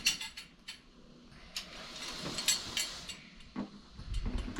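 Irregular light clicks and taps of metal TV-mount brackets and bolts being handled and test-fitted to the back of a TV.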